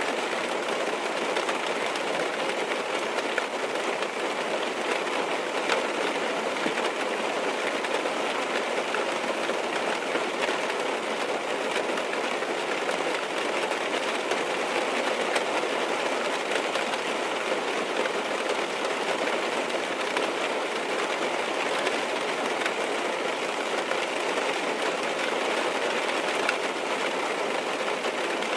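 Steady rain falling on a car's roof and windows, heard from inside the cabin, an even patter with scattered small drop taps.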